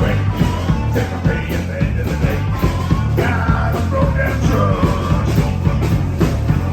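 Rock band playing a song with a sung, partly shouted vocal over a steady bass line and a driving drum beat.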